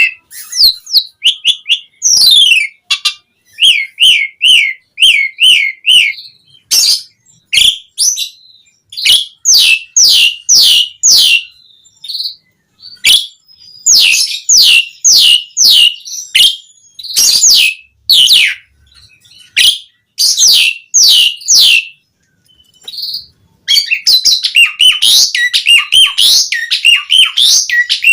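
Asian pied starling singing loudly: runs of sharp whistled notes that slide downward, several in quick succession, broken by short pauses, turning into a dense, unbroken chattering warble near the end.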